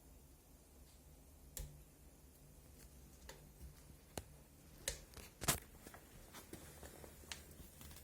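Fire crackling in a Sibir steel stove-fireplace: irregular sharp cracks and pops, the loudest about five and a half seconds in, over a faint low hum.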